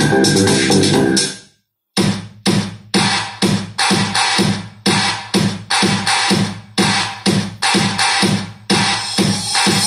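Electronic dance music with a drum-machine beat, played loud through two 12-inch speakers driven by a Sony HT-RT3 home theater amplifier as a bass test. The music cuts out completely about a second and a half in, then comes back as heavy hits about two a second.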